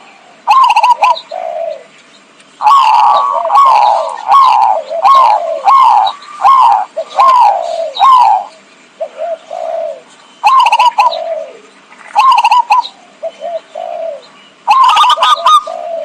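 Zebra dove (perkutut) cooing, played as a trapping lure: short phrases of quick falling coo notes, with a long unbroken run of them a few seconds in, then shorter phrases.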